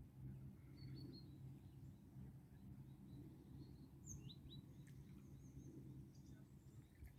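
A few faint, short bird chirps over a low steady hum, near silence otherwise.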